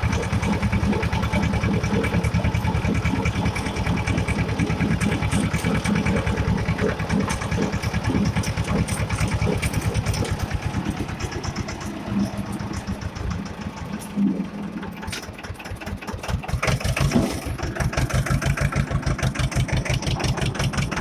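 Escort 335 tractor's three-cylinder diesel engine running on the road with a steady, fast firing beat. It drops quieter for a few seconds past the middle, then picks up again.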